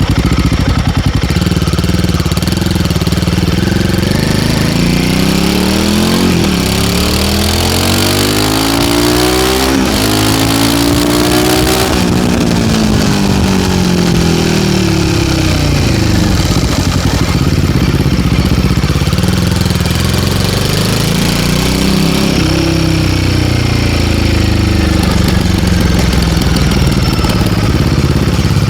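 Royal Enfield Guerrilla 450's single-cylinder engine through an MTG link-pipe exhaust while riding: the engine note climbs through gear changes in the first half, falls away as the bike slows, then climbs and eases again near the end.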